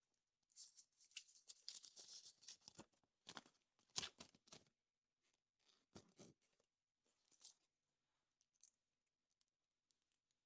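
A surprise-egg wrapper crinkling and tearing for a couple of seconds. Then come several sharp clicks of small plastic parts being handled, the loudest about four seconds in, and fainter ticks near the end.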